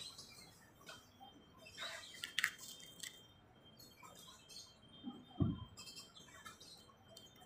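Small birds chirping on and off, in short scattered calls. A short low thump about five seconds in is the loudest sound.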